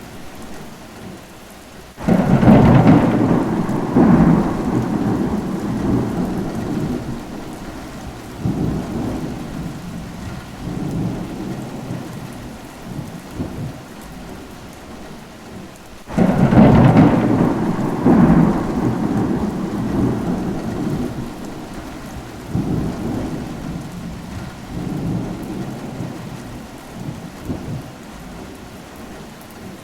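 Steady rain with two rolls of thunder, about fourteen seconds apart. Each starts suddenly and rumbles away over several seconds.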